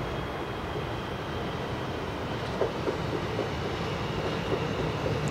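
Electric multiple-unit train running past on the station track: a steady rolling rumble, with a few sharp wheel knocks over track joints from about halfway through.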